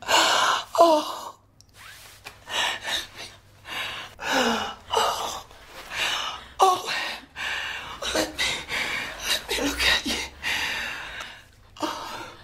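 A woman sobbing hard: repeated wailing cries that fall in pitch, broken by sharp gasping breaths.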